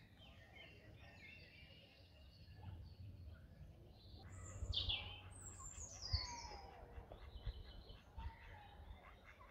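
Several songbirds chirping and singing, with a louder run of quick falling whistled notes about halfway through. A low rumble runs underneath, with a brief low bump about six seconds in.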